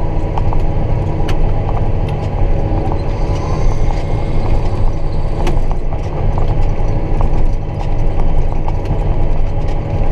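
John Deere 7930 tractor's six-cylinder diesel engine running steadily while driving, with many small clicks and rattles from the cab, which shakes a lot at road speed because the tractor has no cab suspension.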